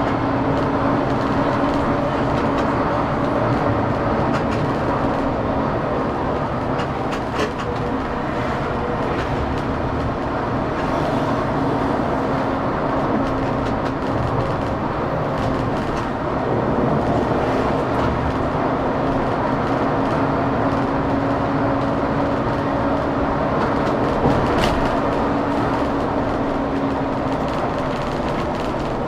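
A Scania K410CB coach travelling at a steady speed: continuous road and engine rumble with a steady low hum, and a couple of brief clicks.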